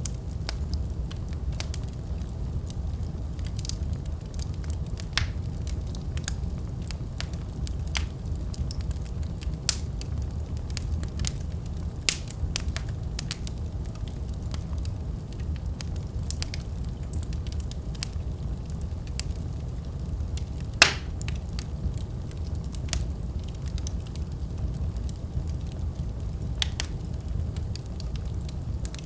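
Wood fire burning in a fireplace: a steady low rumble of flames with irregular crackles and sharp pops of burning wood, one louder pop about two-thirds of the way through.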